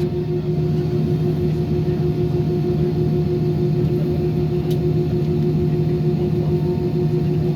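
Steady cabin drone inside an Airbus A320 with its engines at idle while it waits to take off, with several constant humming tones over a low rumble.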